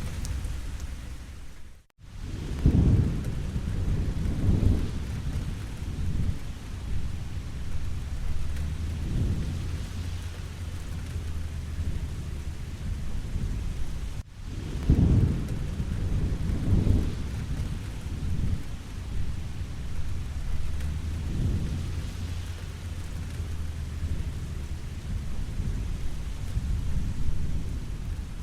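Steady rain falling, with low rolling rumbles of thunder swelling and fading every few seconds, strongest just after about 3 s and 15 s. The sound cuts out for an instant twice, about 2 s and 14 s in.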